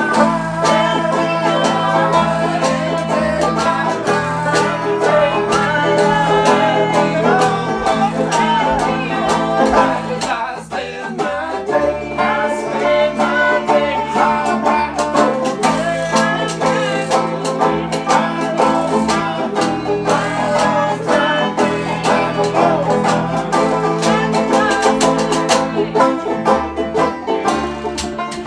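Bluegrass string band playing: banjo picking over guitar, with a bass line stepping underneath.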